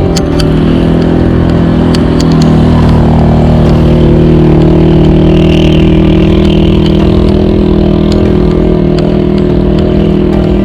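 A motorcycle engine running close by, its pitch rising briefly at the start and then holding a steady drone.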